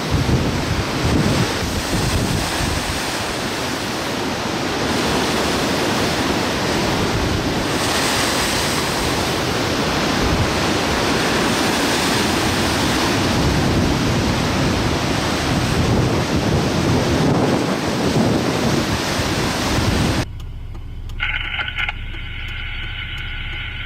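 Strong gusting wind buffeting the microphone over rough Lake Erie waves breaking on shore, a loud, even rush that swells and eases. About 20 seconds in it cuts off suddenly to a much quieter scene with a few faint steady tones.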